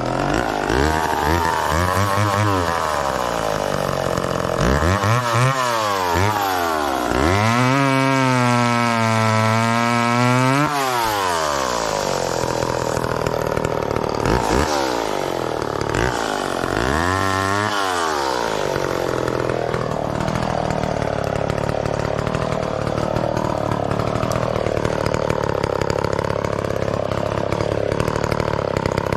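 McCulloch Mac 10-10 two-stroke chainsaw revving up and falling back to idle several times in the first half. It then runs steadily with a wavering pitch, typical of cutting through wood under load.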